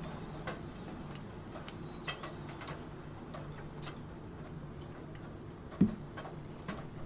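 Computer keyboard being typed on, irregular, sparse key clicks, with a louder thump about six seconds in, over a steady background of rain.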